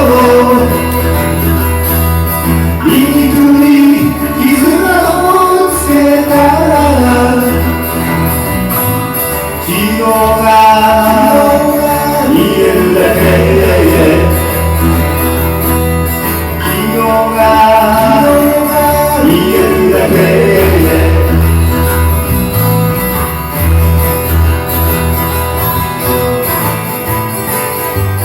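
Live band music: an instrumental passage with guitar over a steady bass, a lead melody line sliding up and down in pitch.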